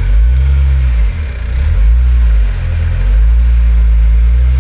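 Off-road 4x4 engine revving under load while crawling up a rock step. The revs rise and fall, dip about a second in, then hold steady.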